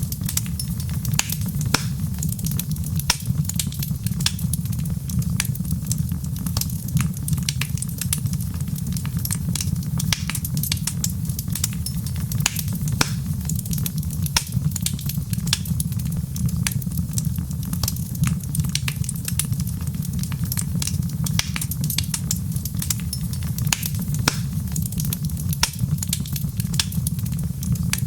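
Wood fire crackling: many small irregular snaps and pops over a steady low rumble.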